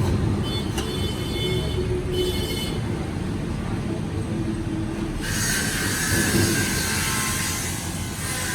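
Metal squealing and scraping over a steady low rumble. Thin high squeals come in the first few seconds, and from about five seconds in a louder, hissier squeal starts and carries on.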